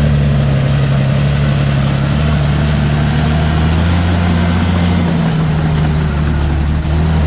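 Heavy diesel engine of earth-moving machinery running steadily at an even, low pitch.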